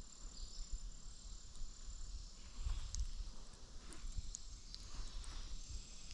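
Insects trilling steadily in a high, thin tone, with low rumbling and a few faint clicks on the microphone.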